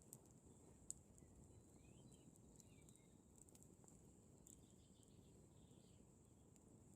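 Wood campfire crackling quietly, with scattered sharp pops, the loudest about a second in, over a low steady rumble. Faint bird chirps and a steady high-pitched whine sit behind it.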